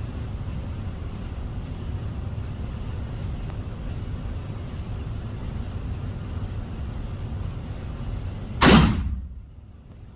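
A single gunshot about three-quarters of the way in, a sighting-in shot fired after the sight was raised three clicks, over a steady low rumble.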